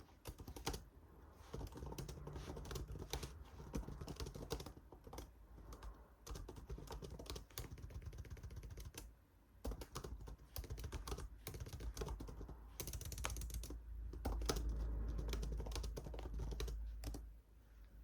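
Typing on a computer keyboard: runs of quick key clicks with a short pause about halfway, stopping just before the end.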